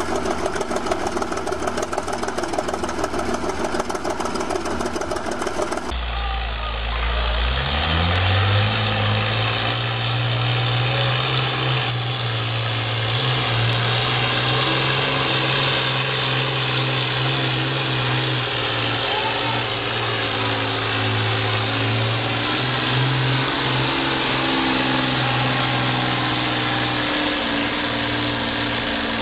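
A vehicle engine running, with an abrupt change of recording about six seconds in; the engine then revs up over a second or two and runs steadily at the higher speed.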